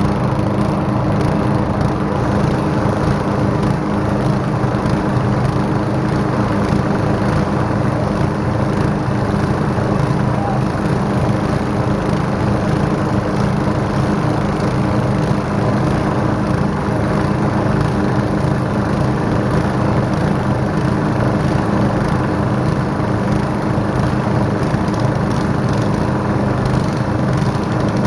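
Many small gasoline engines running at the same time, a dense, steady, loud drone of overlapping engine hums.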